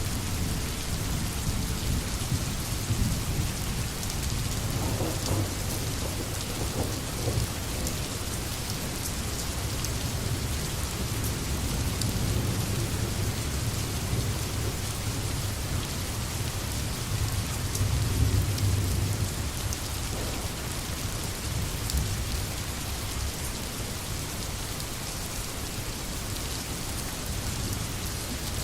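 Steady rain falling, an even hiss with no let-up. A low rumble runs underneath and swells about two-thirds of the way through.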